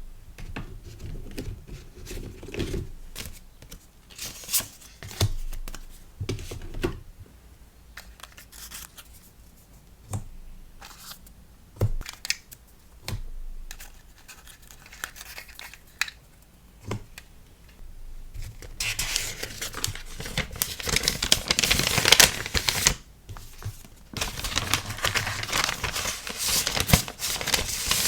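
Close-up handling of paper and plastic packing materials: scattered light taps and short rustles, then about two-thirds of the way through a long stretch of dense crinkling and tearing.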